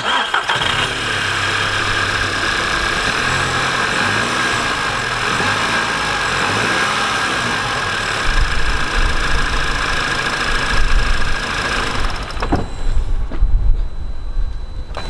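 Audi TT's four-cylinder petrol engine starting up right at the beginning and then idling, its revs shifting a few seconds in before settling. It runs evenly after a fresh set of spark plugs, fitted to cure a misfire from a coil pack fault.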